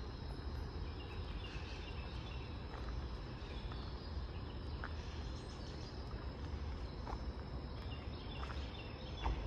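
Outdoor nature ambience: a steady low wind rumble, a steady high insect buzz, and scattered faint bird chirps, with a single knock near the end.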